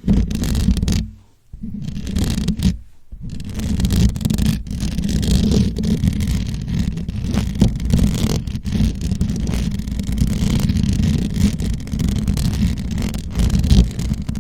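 Fingertips or nails scratching and rubbing directly on a microphone, a dense, loud, bassy scratching that stops briefly about a second in and again near three seconds, then keeps going.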